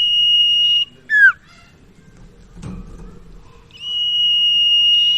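Common iora (burung sirtu/cipaw) singing its whistled song. A long, steady, high whistle ends under a second in, then comes a short, sharply falling note. A second long whistle begins near the end. A faint knock is heard near the middle.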